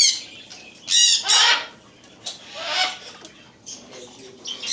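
Parrots squawking: three loud, high calls, one at the start, one about a second in and one near three seconds, with fainter bird chatter between them.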